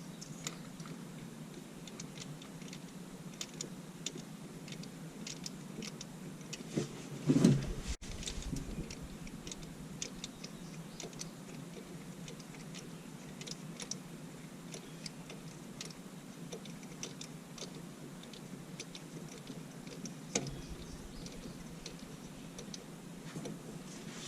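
Scattered light clicks and ticks at an uneven pace over a steady low hum, with one louder knock about seven seconds in.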